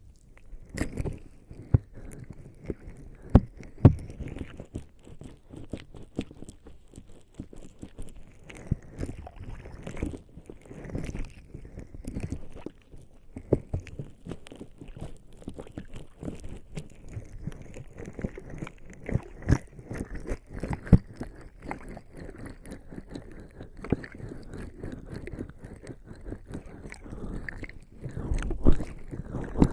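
Lubricating jelly squishing and squelching as bare skin rubs over microphone ears, with many irregular sticky clicks and soft thuds; it grows louder near the end.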